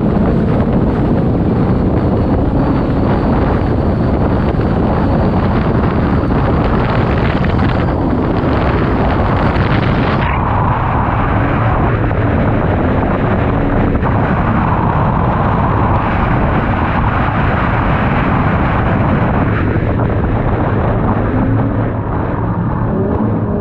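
Supercharged V8 engine of a Toyota Soarer drift car running loud and hard under a heavy rush of noise; near the end its revs climb.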